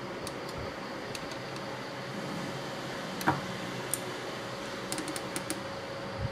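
Scattered small clicks and taps, the sharpest about three seconds in and a quick run of them near the end, over a steady hum.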